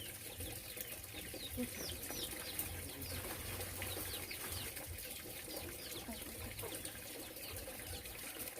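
Birds chirping: many short, high, falling chirps scattered throughout, over a low rumble.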